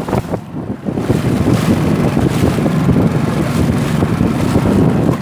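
Strong wind buffeting the microphone, over rough, choppy river water around a canoe.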